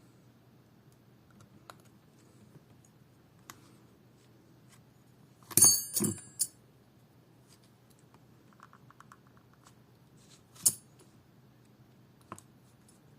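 Small metal tools or parts clinking on a hard work surface: a quick cluster of sharp clinks with a bright ring about five and a half seconds in, then one more clink near eleven seconds. A low steady hum runs underneath.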